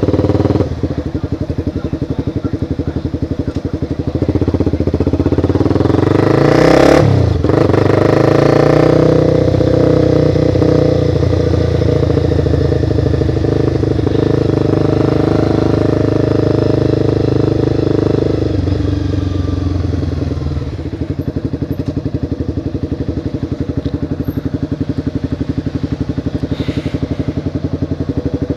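Motorcycle engine running low and pulsing, then revving up and accelerating about four seconds in, with a brief break in the pitch near seven seconds. It runs steadily under load for about ten seconds, then eases off and drops back to a low, pulsing idle-like beat.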